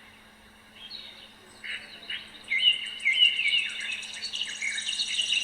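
A crowd of small caged birds chirping and chattering together: many short overlapping chirps and trills, growing busier about a second and a half in.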